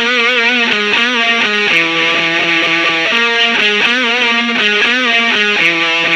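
Distorted electric guitar playing a single-note riff on its own, with several notes bent and shaken in wide vibrato.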